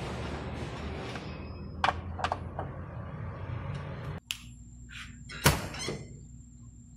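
A few sharp clicks and knocks from hands and tools working at a car door jamb, the loudest about five and a half seconds in, over a steady background hiss in the first half.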